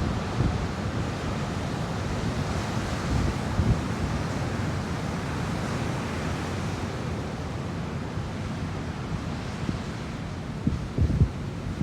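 Ocean surf, the swell from a typhoon, washing steadily, with wind buffeting the microphone in brief low thumps near the start, a few seconds in and near the end.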